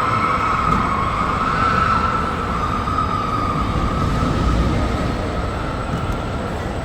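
Amusement ride running: a steady, slightly wavering high-pitched whine over a rumbling din.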